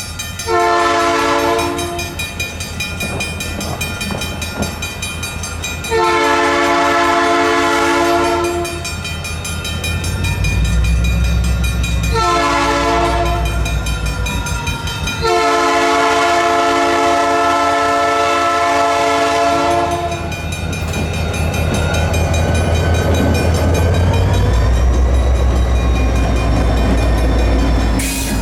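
Diesel locomotive's multi-chime air horn blowing four blasts in the grade-crossing pattern: long, long, short, long, the last held longest. Underneath runs the locomotive's heavy diesel rumble, which grows louder as the train passes near the end.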